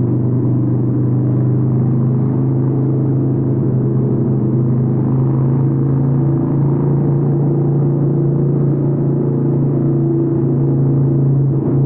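Harley-Davidson 883N Sportster's air-cooled V-twin running through Vance & Hines aftermarket exhausts while riding at a steady cruise. It is a loud, even exhaust note whose pitch steps up slightly about halfway through.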